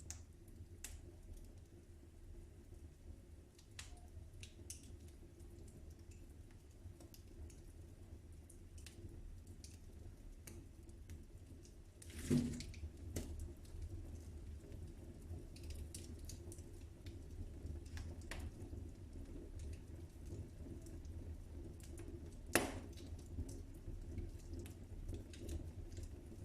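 Wood fire crackling in a fireplace: a low steady rumble with scattered sharp pops, two of them louder, about halfway through and near the end.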